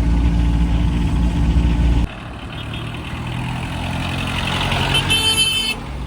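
Vintage car's engine droning steadily for about two seconds, then cut off suddenly by a quieter stretch of road traffic noise. A short, high-pitched vehicle horn sounds near the end.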